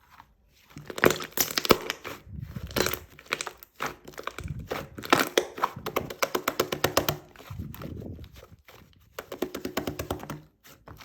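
Slime being squeezed and pressed by hand: dense runs of sticky clicks and pops from trapped air, coming in several bursts with short pauses between.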